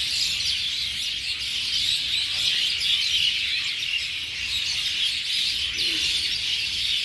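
A dense chorus of many small birds chirping all at once in a continuous overlapping twitter, as a flock gathers to roost.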